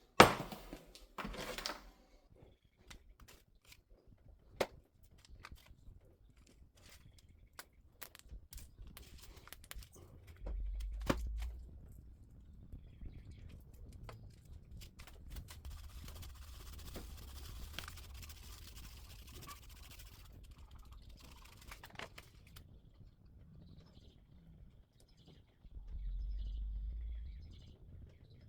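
Scattered light clicks and knocks of hands and small tools at work, with a stretch of faint scraping hiss midway and two short low rumbles, one about ten seconds in and one near the end.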